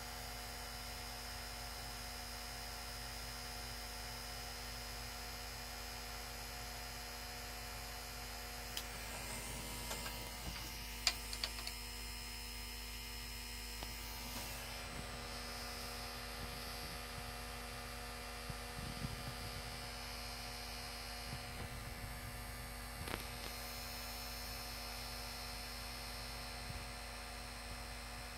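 PlayStation 4 Slim buzzing steadily with a game disc inserted, a really loud buzz that the owner suspects comes from the disc drive or the fan. A few short clicks and knocks come through in the middle.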